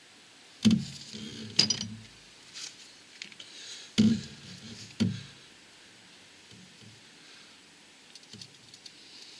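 Metal clanks and clinks of tools and parts being handled: four sharp knocks, two in the first two seconds and two more around four and five seconds in, followed by a few light clicks.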